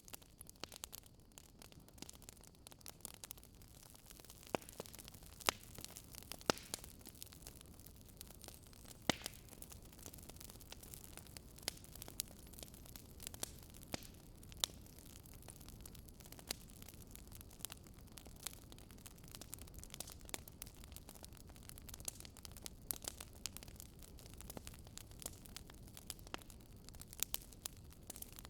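Fireplace fire crackling: irregular sharp pops and snaps, a few louder ones, over a low steady rumble.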